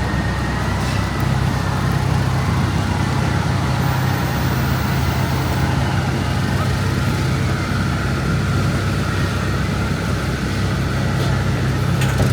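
Steady street noise of Midtown Manhattan traffic in a snowstorm, with a continuous low rumble and no clear single event.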